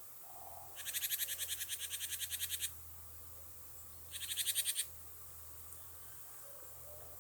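A rapid rattling animal call of even clicks, about ten a second, in two bursts: one about two seconds long, then a shorter one of under a second.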